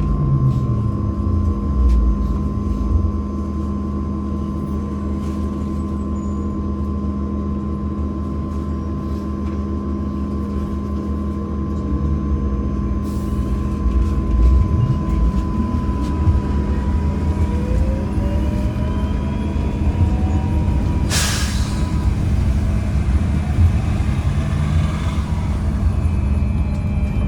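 Interior of a MAZ-203T70 trolleybus under way: the electric traction drive whines, the pitch falling as it slows at the start and rising again in several glides from about halfway through as it picks up speed, over a steady electrical whine and road rumble. A short, sharp hiss of air cuts in about two-thirds of the way through.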